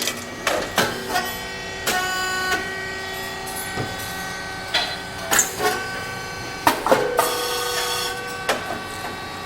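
SYP4506 popped-chip machine running a popping test on 4 to 6 mm popcorn kernels. Sharp bursts come about every one to two seconds as the heated moulds release puffed corn chips, over a steady whining hum of several held tones.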